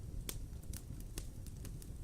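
Wood fire crackling in a fireplace: scattered sharp pops and snaps, roughly one every half second, over a low steady rumble of the burning.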